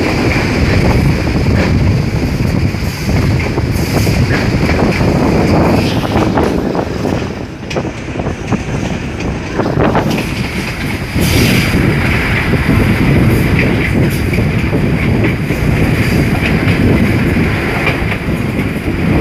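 Passenger train running along the line, heard from an open carriage window: wheels clattering over the rails and the carriage rattling, with a dense rush of noise. It eases off for a few seconds around the middle, then picks up again.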